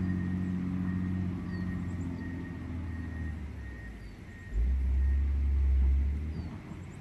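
John Deere 670 GP motor grader's diesel engine running with a steady low hum that slowly fades, then a sudden, louder deep rumble for nearly two seconds from a little past halfway.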